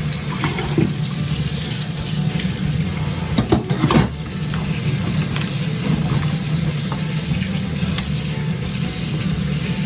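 Tap water running steadily into a sink as mushrooms are rinsed under it, with a couple of sharp knocks about three and a half and four seconds in.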